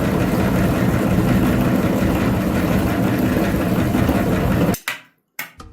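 An engine running steadily at a loud, even level, which cuts off abruptly near the end.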